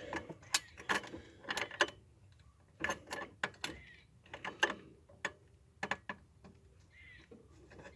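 Irregular clicks and light metallic knocks of parts and tools being handled while a turbo wastegate is test-fitted in an engine bay.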